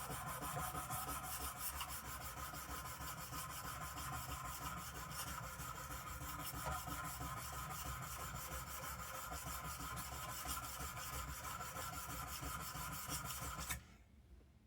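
Steel block plane blade rubbed back and forth, flat on its back, across an oiled medium India stone to flatten the back: a steady scraping that stops about a second before the end.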